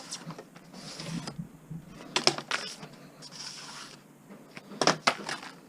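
Metal parts knocking and clinking, with two short stretches of scraping, as pieces of a scrap stove are pulled apart by hand.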